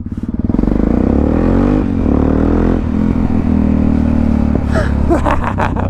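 Motorcycle engine pulling away under throttle: its pitch rises, falls at a gear change just before two seconds in, climbs again briefly, then holds steady as the bike rides on.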